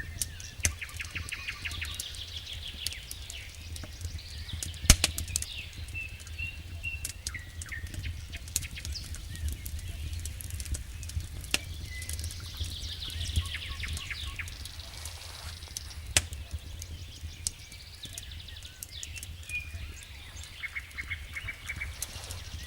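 Wood fire in a fireplace crackling, with irregular sharp pops (the loudest about five seconds in and another near sixteen seconds) over a steady low rumble. High chirping trills come and go through it.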